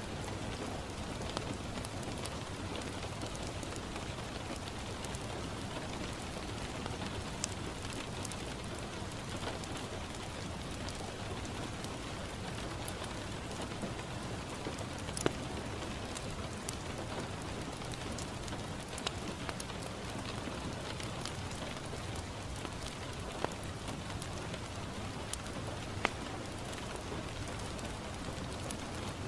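Steady rain falling on a window, an even patter, with a wood fire crackling and giving a sharp pop every few seconds.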